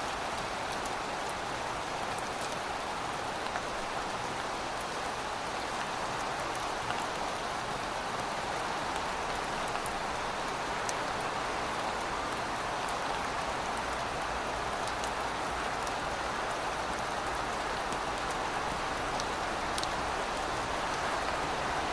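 Steady rain falling, with scattered individual drops ticking sharply over the even hiss.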